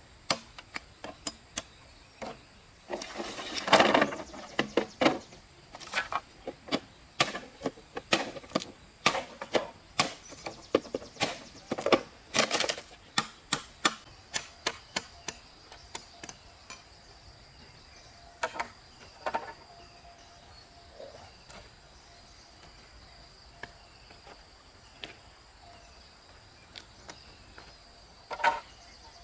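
Repeated sharp wooden knocks, about two a second at first and sparser from about halfway, with a brief rustling scrape a few seconds in. A steady high insect buzz runs underneath.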